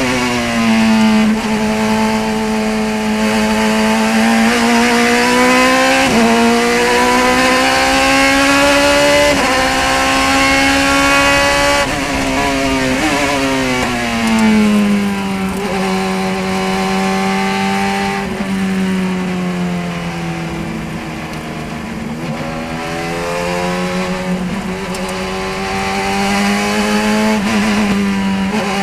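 Radical SR3 race car's engine at full throttle, its note climbing in steps through several gear changes, then dropping as the car slows for a corner and rising again near the end.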